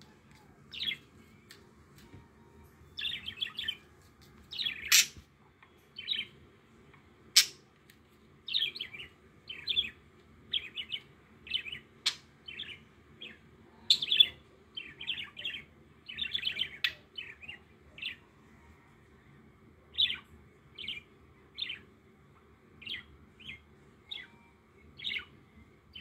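Caged pet bird chirping: many short, high chirps, about one or two a second, with a few sharp clicks among them.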